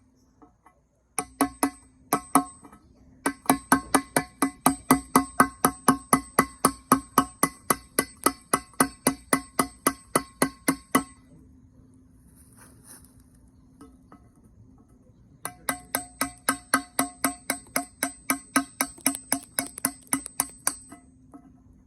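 Kiln shelf being struck again and again to chip off fired glaze, each blow ringing with a clear tone. The blows come at about four a second, in two long runs with a pause of a few seconds between them.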